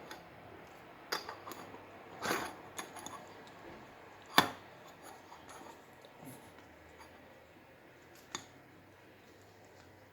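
Scattered light clicks and clinks of small hard objects being handled and set down during a soldering repair of an LED bulb, with one sharp click a little over four seconds in.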